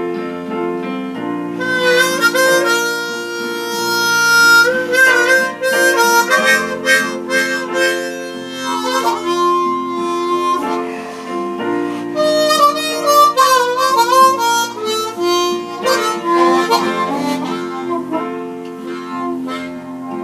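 Harmonica solo playing the melody over a steady accompaniment, with bent notes and trills, during an instrumental break.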